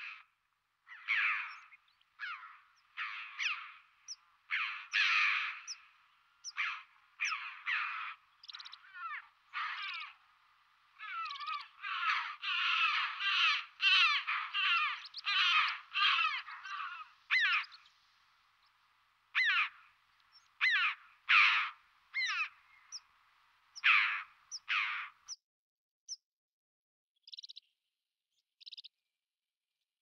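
Birds giving a long series of harsh, crow-like calls, densest about halfway through and thinning out, with a few short, higher notes near the end.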